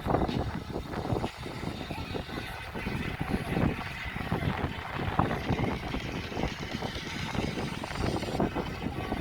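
Wind buffeting the microphone of a riding bicycle, an uneven, gusty rumble.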